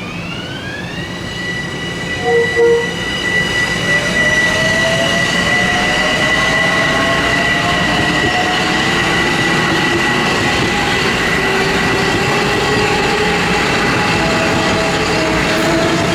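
Metro-North Bombardier M7 electric multiple unit pulling out: its traction motors whine, climbing in pitch for about a second and then holding a steady high note, while lower tones keep rising as the train gathers speed. Two short loud tones sound about two and a half seconds in.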